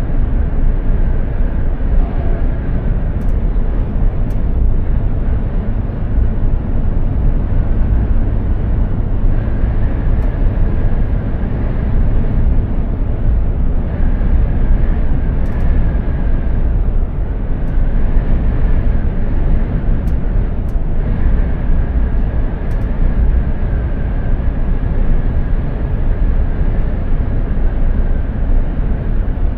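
Mercedes-Benz Actros 2763 heavy truck driving at steady speed: continuous engine drone and tyre and road noise, with a faint whine that fades in and out.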